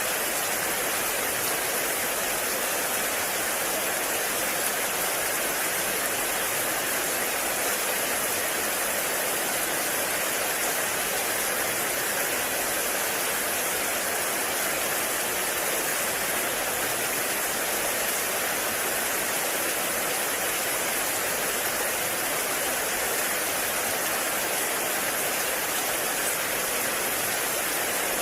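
Heavy rain falling steadily in a forest, an even, unbroken wash of noise.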